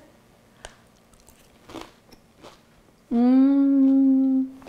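A few faint crisp crunches as a woman bites and chews a crispy pan-fried Korean zucchini pancake. About three seconds in, these give way to a long, steady, loud "mmm" hum of enjoyment.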